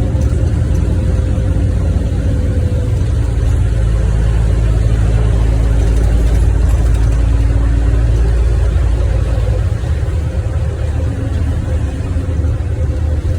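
NefAZ 5299 city bus's diesel engine and road noise while the bus is moving, heard from inside the cabin: a heavy steady low drone with a humming tone, easing off about ten seconds in.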